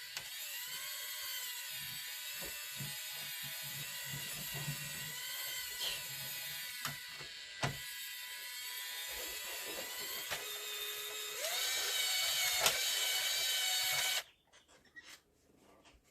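Small electric motor and gearbox of a WPL radio-controlled truck whining, its pitch rising and falling as the throttle changes. It gets louder about three-quarters of the way in, then stops abruptly, followed by a few faint clicks.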